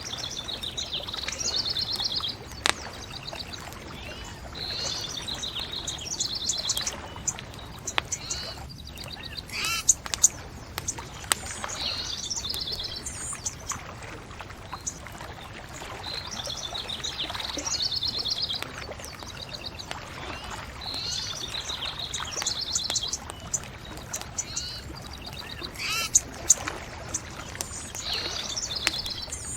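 A songbird singing short trilled phrases every few seconds, over a steady background wash, with scattered sharp pops of a crackling bonfire.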